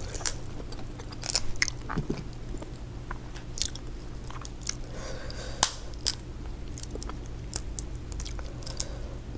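Close-up eating: chewing, with scattered sharp clicks and cracks of crab shell being broken and picked apart by hand.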